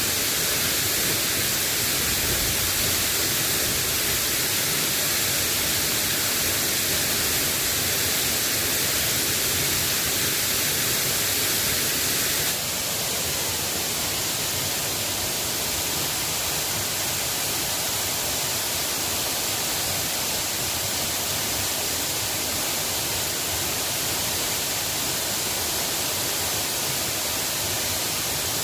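Steady hiss of rain falling. About halfway through it changes suddenly and becomes a little quieter.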